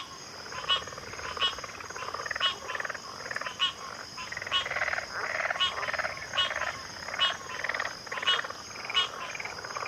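A backwater chorus of frogs calling: short, sharp calls about once a second over a dense layer of overlapping pulsing croaks, with a steady high-pitched hum above.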